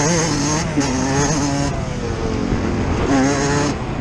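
Yamaha YZ125 single-cylinder two-stroke motocross engine heard on board, its revs rising and falling with the throttle. It eases off about halfway through, with the pitch sliding down, and revs up again near the end.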